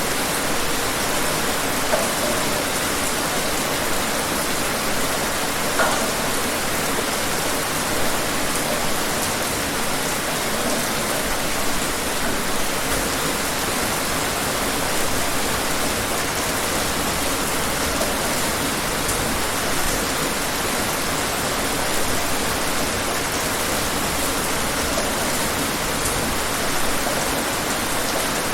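Steady rain falling, an even hiss of many drops with a few louder single drops standing out now and then.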